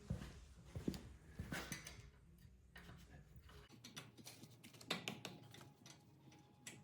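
Faint, irregular clicks and small metal knocks of hand tools and parts being handled. A low background hum cuts off a little over halfway through.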